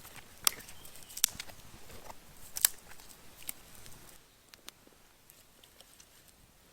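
Rustling with several sharp snaps and clicks, the loudest about half a second, a second and a quarter and two and a half seconds in; the rustling stops about four seconds in, leaving only a few faint ticks.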